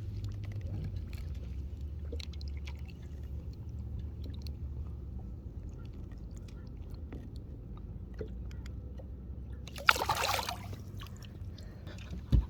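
A largemouth bass is released over the side and hits the water with a single sharp splash about ten seconds in. Before it there is a steady low rumble with scattered small clicks and knocks.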